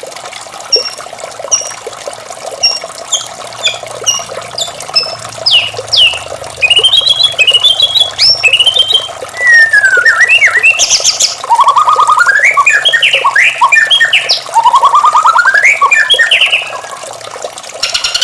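White-rumped shama singing. It opens with a series of short two-note calls about every half second, then breaks into a loud, varied song of fast trills and sweeping whistles, over a steady rush of running water.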